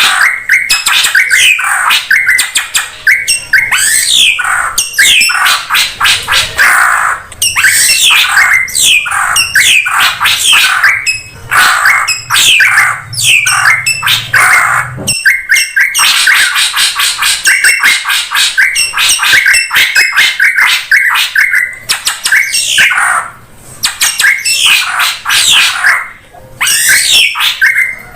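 Drongo (srigunting) calling noisily: a dense, rapid run of harsh squawks, chatters and quick falling whistles with hardly a pause, as used in a bird-trapping lure recording.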